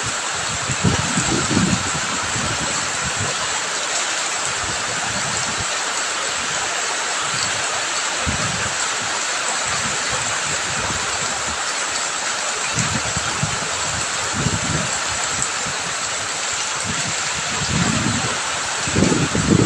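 Rain and running water: a steady, even rushing hiss, with short low rumbles coming and going now and then, strongest near the end.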